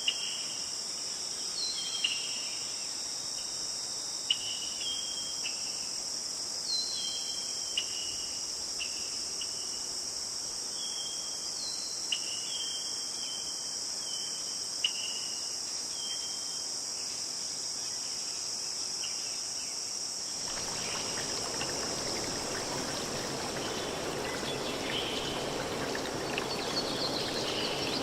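Steady high-pitched chorus of crickets and other insects, with short high chirps repeating during the first half. About twenty seconds in, a broad steady rushing noise cuts in suddenly under the chorus.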